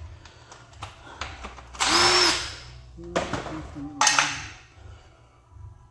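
A handheld power tool run in two short bursts: the first, about two seconds in, lasts about half a second, and the second, just after four seconds, is briefer. Light clicks and knocks come between them.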